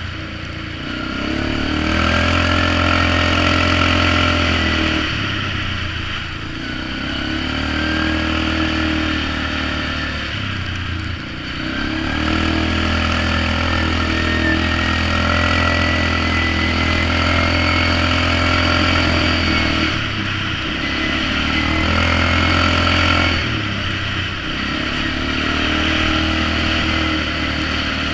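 Polaris Magnum 425 ATV's single-cylinder four-stroke engine running through a DG Performance RCM-II aftermarket muffler while riding, the throttle opened and let off several times. A thin whine climbs in pitch as the machine picks up speed.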